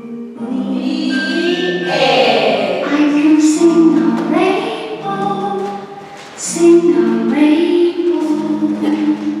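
Young children singing a song together in a group, with musical accompaniment under their held notes.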